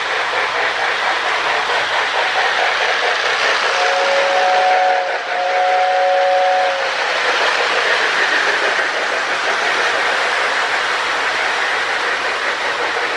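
O gauge toy train running on its track with a steady rumble of motor and wheels. About four seconds in, the Lionel air whistle in the baggage car sounds two blasts in a row, each a steady two-note chord lasting over a second.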